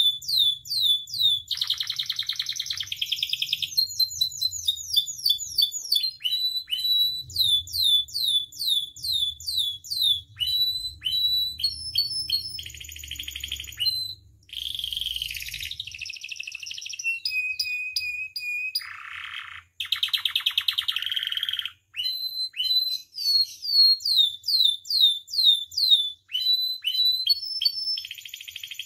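Domestic canary singing a long, varied song: fast runs of repeated falling chirps, several buzzy trills, and one held whistled note a little past halfway through.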